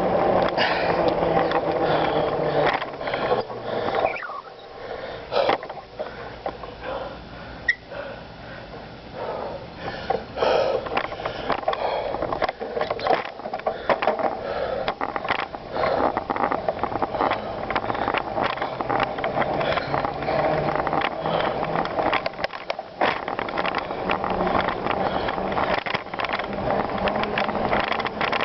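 Bicycle being ridden over rough ground: steady tyre noise with frequent irregular rattles and knocks from the bike, easing off briefly about four seconds in.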